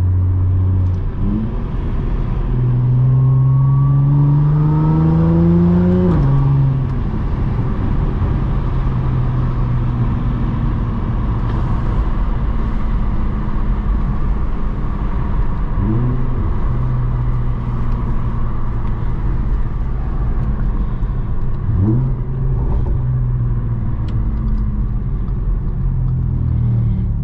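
Audi S4's supercharged 3.0-litre V6 on the move: it revs up under acceleration for a few seconds, drops back, then cruises at a steady engine note, with two short rev blips later on.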